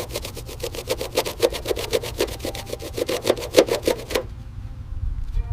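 Rapid, rhythmic scraping strokes, about seven a second, that stop abruptly about four seconds in, leaving a faint low hum.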